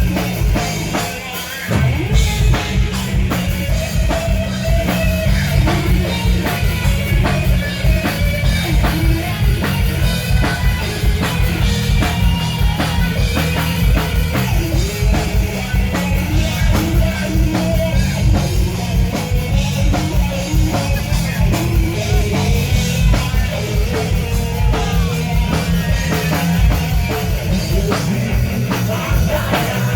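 Rock band playing live, with a pounding drum kit, electric guitar and bass under a singer. The drums and bass drop out briefly about a second and a half in, then come back in.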